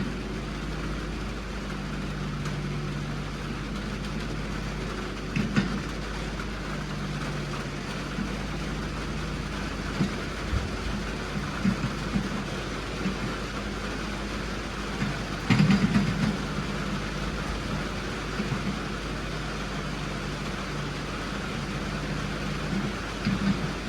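A vehicle engine running steadily, with a few clunks and rattles; the loudest bunch comes about two-thirds of the way through.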